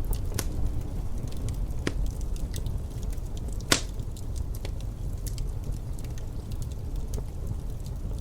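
Wood fire crackling, with scattered sharp snaps and one loud pop about two thirds of the way through, over a steady low rumble of wind.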